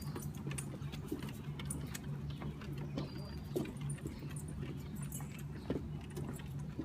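Walking on a trail with dogs: irregular light clinking and jingling of metal, such as collar tags and leash clips, with scuffing steps, over a low steady hum.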